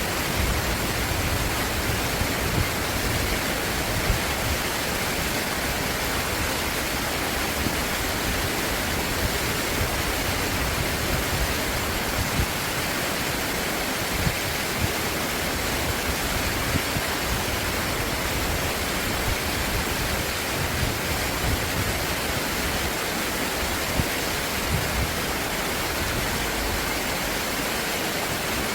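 Stream water flowing, a steady, even rush of noise.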